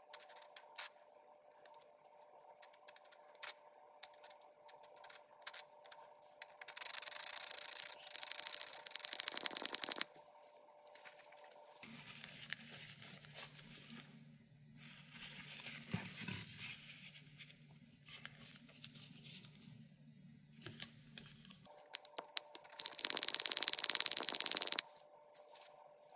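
Oil being forced through a computer power-supply fan's bearing to flush it out, in four hissing, spattering bursts of a few seconds each over a steady low hum.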